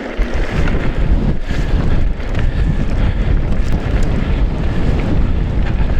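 Strong wind buffeting an action camera's microphone on a moving mountain bike: a loud, continuous low rumble that comes up sharply a moment in.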